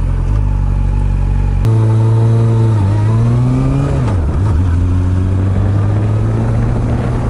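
Honda CB400 Super Bold'or NC42 inline-four running through an r's gear aftermarket exhaust while the bike is ridden: a steady engine note that steps up in pitch a couple of seconds in, climbs, then drops sharply about four seconds in and holds steady again.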